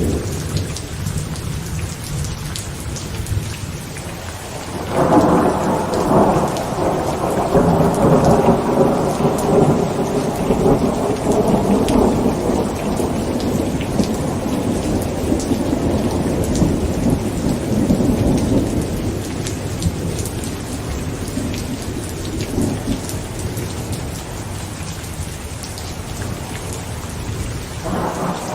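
Heavy rain drumming steadily on a tent, with a long rolling rumble of thunder that breaks in about five seconds in, lasts around fifteen seconds and slowly dies away; another rumble starts near the end.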